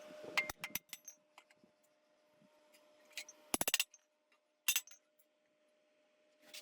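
Sharp metallic clinks and taps: a few near the start, a quick rattling run of them a little past halfway, then one more, over a faint steady hum.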